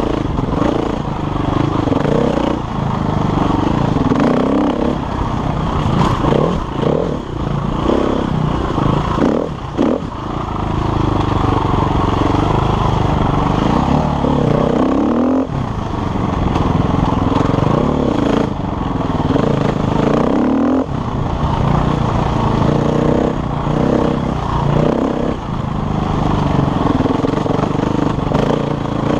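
KTM enduro motorcycle engine running under constantly changing throttle, revving up and backing off over and over, with sharp rising surges about halfway through and again about two-thirds of the way in.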